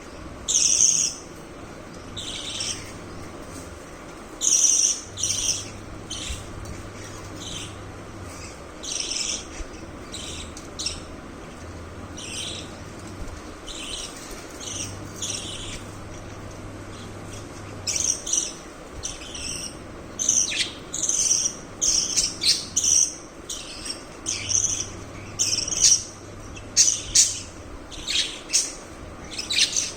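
Budgerigars chirping: many short, high-pitched chirps, scattered at first and coming thick and fast in the second half, over a faint low hum.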